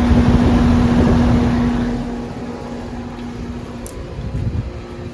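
Concord outdoor heat pump unit running: a steady compressor hum under the rush of its condenser fan. The rush is loudest for the first two seconds, and the hum drops away a little before the end.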